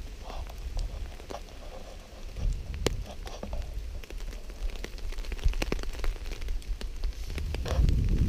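Raindrops tapping irregularly on a camping tarp, over a low rumble that swells near the end.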